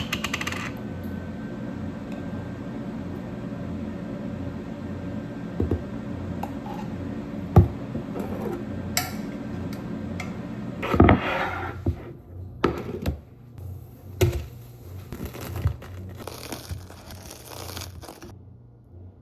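Kitchen food-prep sounds: packaging crinkling and utensils and dishes knocking and clinking, over the steady hum of a running kitchen appliance that stops about two-thirds of the way through.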